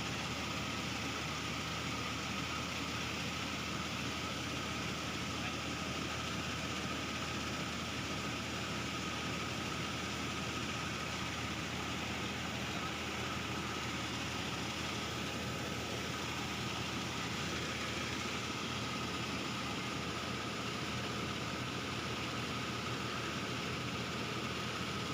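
Tractor engine running steadily and driving a PTO-powered mobile rice mill: a constant machine hum with a few steady tones and no change in speed.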